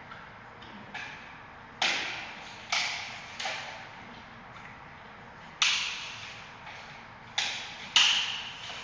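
Giant panda biting and snapping bamboo: a series of sharp cracks, about six in all and each dying away over about half a second, with fainter crunches between.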